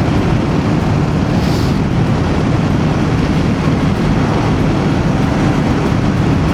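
Voge DS525X parallel-twin motorcycle riding at steady speed: a constant engine drone mixed with wind rushing over the rider's helmet microphone.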